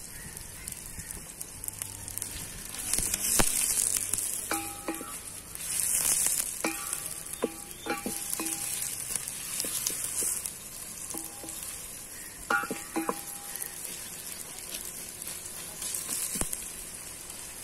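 Sliced onions and green chillies sizzling in hot ghee in a steel pot, stirred with a wooden spoon. The sizzle swells and fades, and the spoon knocks and scrapes against the pot several times, some knocks ringing briefly.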